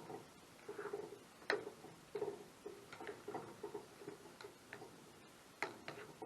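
Faint, irregular ticks and taps, a few sharper clicks among many softer knocks, coming unevenly a few times a second.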